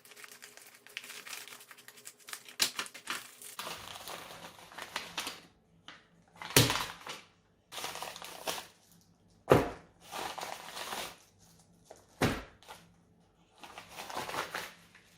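A delivery package being opened by hand: packaging crinkling, crumpling and tearing, with four sharp, loud rips or knocks spread through it.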